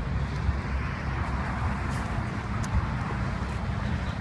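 Car traffic: a steady low engine rumble with tyre and road noise that swells about two seconds in, as a car passes.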